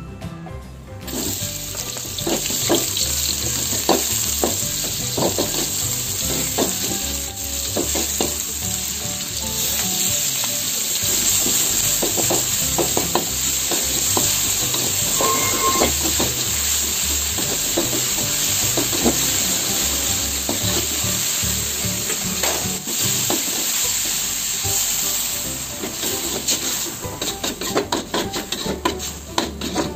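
Sliced onion and spice paste sizzling in hot oil in a steel wok, with a spatula stirring and scraping against the pan. The sizzling sets in about a second in. Near the end it eases and the spatula's knocks stand out.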